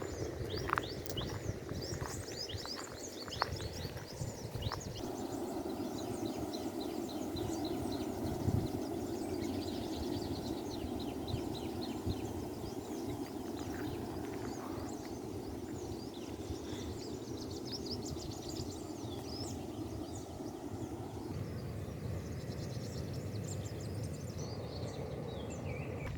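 A chorus of birds chirping in many short, quick calls over a steady background noise, which swells from about five seconds in and eases off again near the end.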